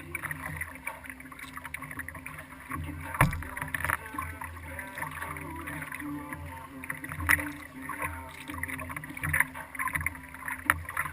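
Kayak out on the water, heard through a camera mounted on the hull: steady water and paddling noise with scattered knocks on the hull, the sharpest about 3 seconds in and again about 7 seconds in.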